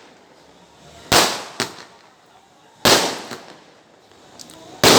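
Firecrackers going off: three loud bangs about two seconds apart, about a second in, near the middle and right at the end, each dying away over half a second and followed by a smaller pop.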